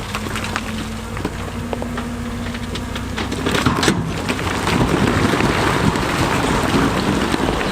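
Big stones rumbling and clattering as they are shifted by heavy machinery, with a diesel engine running underneath. The rumble grows louder about halfway through.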